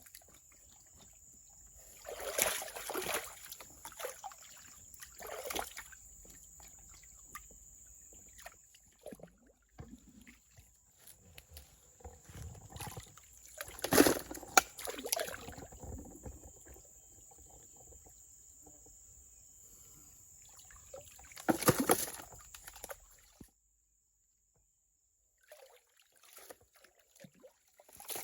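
Water sloshing and splashing in four separate bursts over a steady high-pitched buzz. The sound cuts off to dead silence about three-quarters of the way in, and a few faint sounds return near the end.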